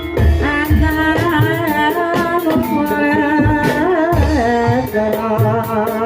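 Javanese gamelan music accompanying a kuda kepang (ebeg) dance. A singer's wavering, ornamented melody runs over repeated low drum strokes and bright metallic percussion strikes.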